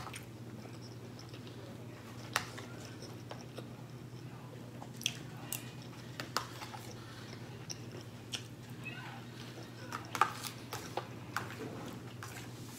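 Close-up chewing and mouth sounds of someone eating a mouthful of pork chop, rice and green beans, with scattered short clicks of a fork against the plate, about a dozen in all. A steady low hum runs underneath.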